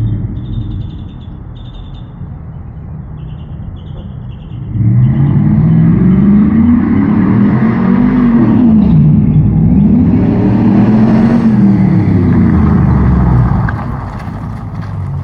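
2003 Chevrolet Silverado's 4.8-litre V8 running quietly, then about five seconds in accelerating hard, its note climbing in pitch, dropping sharply as the automatic transmission shifts up, and climbing again before easing off near the end. The engine has just been retuned.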